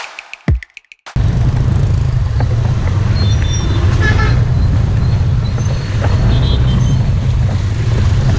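Steady street traffic noise with motorbike and car engines running, and a short horn toot about four seconds in. A music track's beat stops about a second in.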